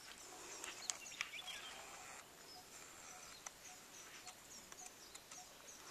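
Faint birdsong: scattered short, high chirps, and from about two seconds in a low short note repeating about twice a second.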